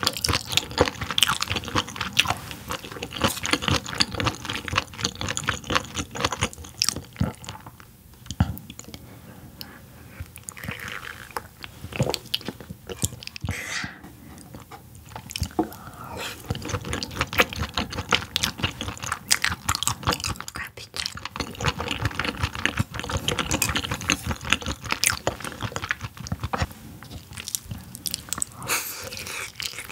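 Close-miked chewing and biting of yellowtail: a steady run of wet, clicky mouth sounds with crunches, easing off briefly a few times.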